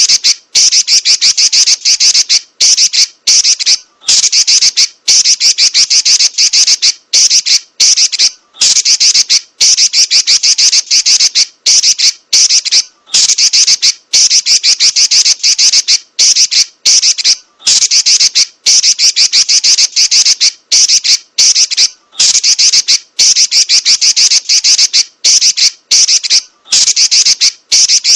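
Female Pekin robin (red-billed leiothrix) singing a fast, high-pitched chattering trill in long rolls, broken by short pauses every second or so.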